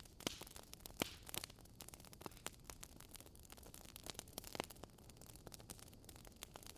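Wood fire crackling in a fireplace: irregular sharp pops and snaps over a soft hiss, a few louder pops, among them one about a second in.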